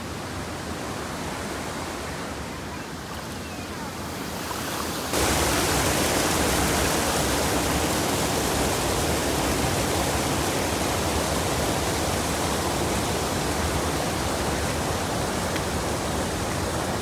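Steady rush of falling water. About five seconds in it cuts abruptly to a louder, closer rush.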